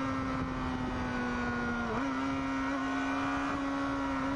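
Sport bike engine at high, steady revs, heard onboard with a steady wind and road rush underneath. The pitch sags slightly, then jumps up a little about two seconds in.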